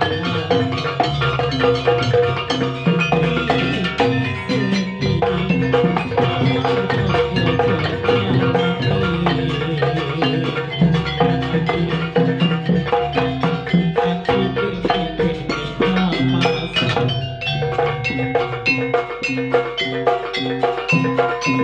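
Instrumental passage of live band music: drums and mallet-struck percussion play a steady repeating pattern, with no singing.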